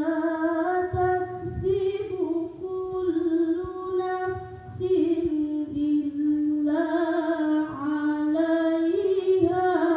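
A woman's voice reciting the Quran in the melodic tilawah style, holding long notes in a clear, sweet tone, the pitch stepping up and down between held notes.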